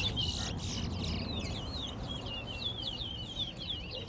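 Towa-towa finch singing a long rapid run of short, high, downward-slurred whistled notes, the song that is counted in a bird-singing race.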